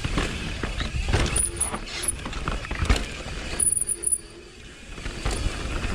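Mountain bike rattling and clattering over a rough downhill trail, with irregular knocks, and a quieter stretch about four seconds in.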